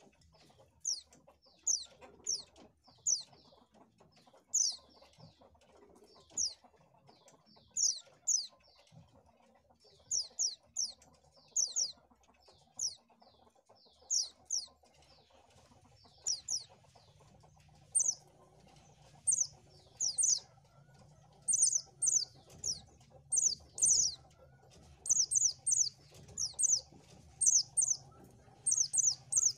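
White-eye (pleci) giving short, high chirps, each a quick falling sweep, singly and in quick clusters, coming more often in the second half.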